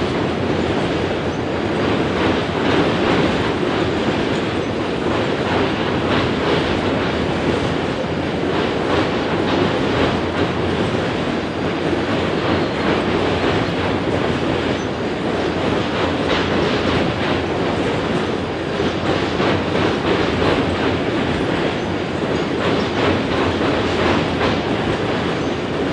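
Freight boxcars rolling steadily past, a continuous rumble and rattle of steel wheels with rapid clicks as they run over the rail.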